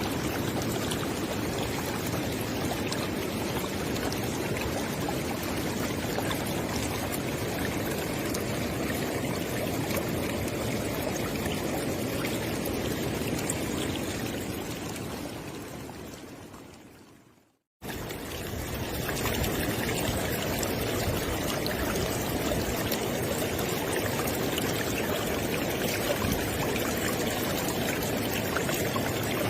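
Flowing river water, a steady rush. About halfway through it fades out to a moment of silence, then comes back abruptly at full level.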